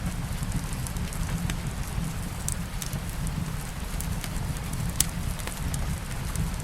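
Wood fire crackling with scattered sharp pops, the loudest about five seconds in, over steady rain and a low, even rumble.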